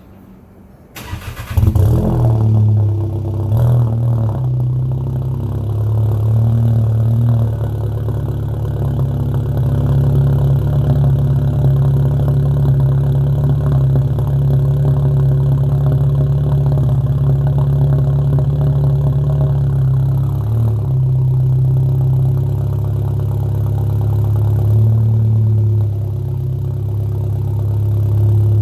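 Car engine with a downpipe and AWE Track cat-back exhaust starting about a second in, flaring briefly, then settling into a steady idle with a deep exhaust drone.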